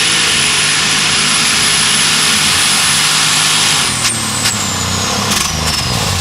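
Light super stock pulling tractor's turbocharged engine at full power under load, with a steady high turbo whistle. About four seconds in the engine lets off, with a few sharp pops, and the turbo whistle falls in pitch as it spools down.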